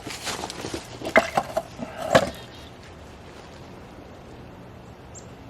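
Handling noise: a quick run of knocks and clatters over the first two seconds or so, the loudest a little after two seconds, then only a steady low background.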